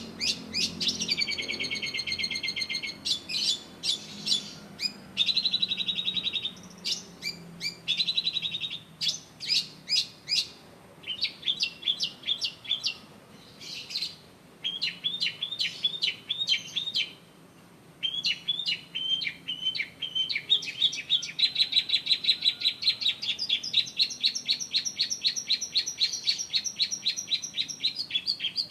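Long-tailed shrike (cendet) singing a varied, high-pitched song of short phrases and trills with brief pauses between them. In the last third it breaks into a long, fast run of rapidly repeated notes.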